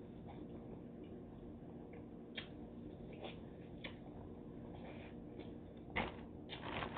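Eating sounds from biting and chewing boiled corn on the cob: soft chewing with a few short mouth clicks and smacks scattered through, the loudest near the end, over a low steady hum.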